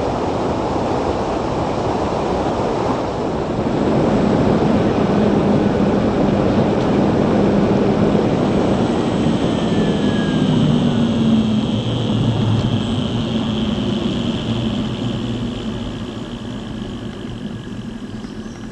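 Wind rush and road noise from a Zero DSR electric motorcycle on the move, picked up by a bike-mounted camera. The noise grows louder about four seconds in, a low hum and a faint high whine come and go through the middle, and it eases off near the end.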